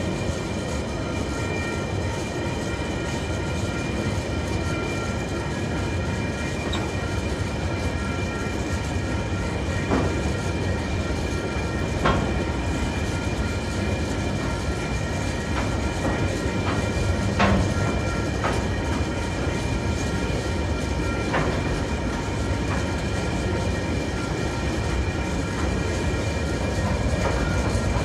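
Container wagons of a freight train rolling past: a steady rumble of wheels on rail, with a few sharp clicks and knocks from the wheels and couplings and steady high ringing tones over it.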